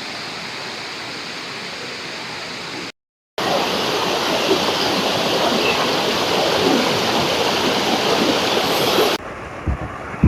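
Steady rush of water falling at a small waterfall. It cuts out for a moment about three seconds in, comes back louder, then drops away near the end, where a few low thumps are heard.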